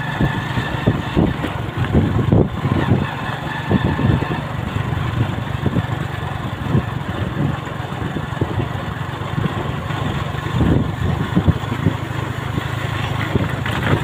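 Motorcycle engine running steadily while riding, heard from on the bike, with irregular thumps and rumbles from wind and the bumpy road hitting the microphone.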